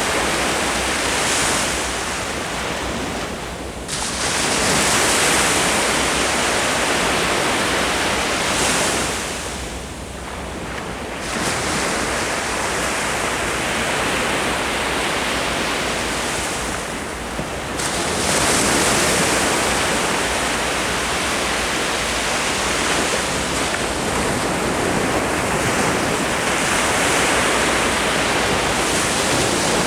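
Ocean surf breaking on the shore as a steady rush, surging with a fresh break after short lulls at about four, eleven and eighteen seconds in.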